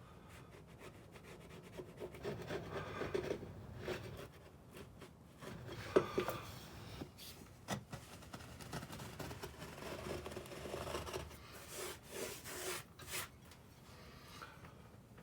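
Homemade hand scraping tool scraping old caulking out of a teak deck seam, in irregular strokes of wood-and-rubber scraping. A sharp click about six seconds in is the loudest moment.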